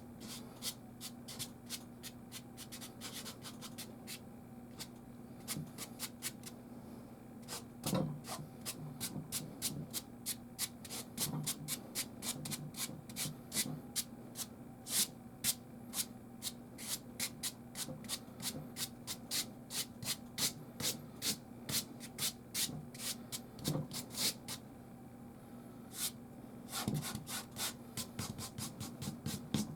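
Soft pastel stick scratching across canvas in quick, repeated strokes, about two to three a second, with a couple of short pauses.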